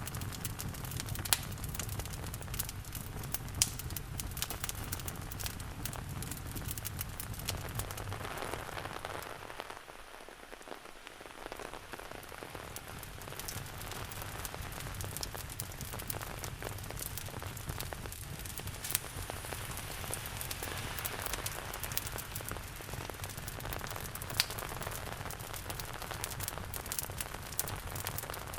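Steady rain falling, mixed with a fireplace's wood fire crackling in sharp scattered pops. The sound dips quieter for a few seconds about ten seconds in.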